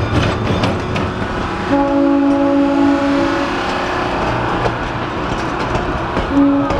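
A passing train: the air horn of diesel locomotive 1956, an ALCO RSD-1, blows a chord for about two seconds, starting about two seconds in, and again near the end, over the rumble and wheel clicks of the passenger coaches rolling by on the rails.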